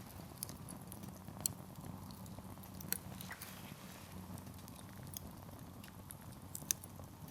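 Wood campfire burning: a low, steady rush of flame under irregular sharp pops and crackles from the firewood, a few of them distinctly louder.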